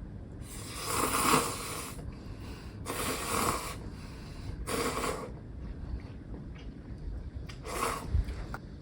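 Close-miked mouth sounds during a donut mukbang: four airy bursts, each under about a second and a half, a couple of seconds apart.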